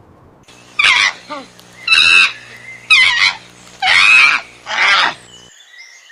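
An animal giving five loud, harsh calls about a second apart. Faint chirps follow near the end.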